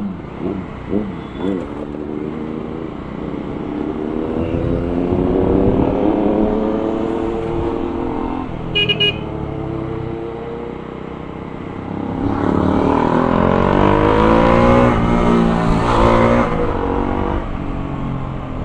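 Kawasaki Z900's inline-four engine revving and pulling through the gears, pitch rising and falling, with a louder, higher pull from about twelve seconds in. A short double beep about nine seconds in.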